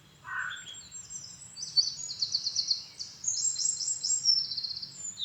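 Small songbird singing high-pitched chirps and rapid trills, in several short repeated phrases.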